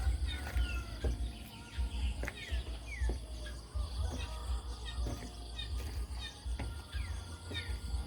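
Birds calling in short, falling chirps over a steady high-pitched insect drone, with a low rumble underneath.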